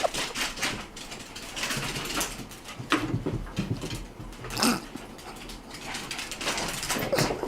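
A pet animal's sounds, with rustling and a few sharp knocks, the loudest about three and almost five seconds in.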